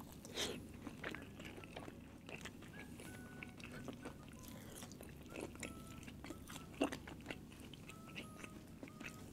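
Close-miked mouth sounds of someone eating: soft chewing with wet smacks and clicks, a sharper smack about seven seconds in.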